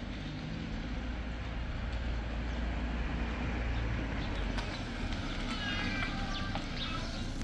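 Peugeot Pars car engine running at low speed as the car rolls up and stops, with a brief high-pitched cry about six seconds in.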